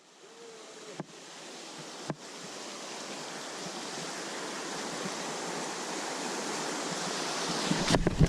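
Rushing water of a rainforest creek, a steady rush that fades up from silence and grows louder, with two sharp clicks about one and two seconds in.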